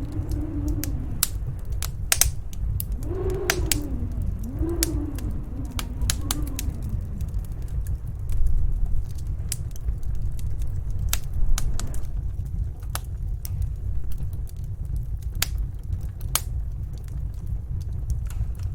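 Wood fire crackling with frequent sharp pops over the steady low rumble of a snowstorm wind. Wind howls in rising-and-falling moans several times in the first seven seconds or so.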